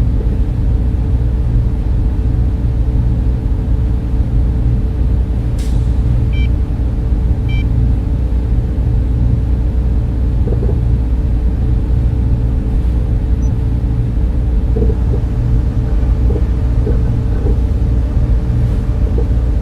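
Steady low hum and whir of data-center server and cooling-fan noise, with a faint click about six seconds in and two short high beeps soon after.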